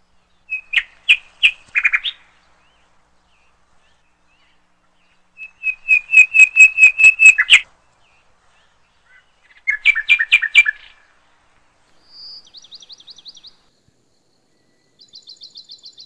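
Bird song: phrases of quick repeated chirps with pauses between them, three loud ones followed by two fainter, higher trills near the end.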